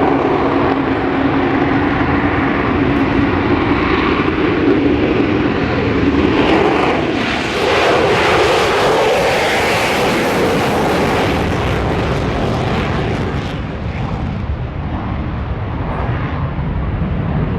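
Loud aircraft engine noise as an airplane flies past, strongest and brightest through the middle and easing off toward the end.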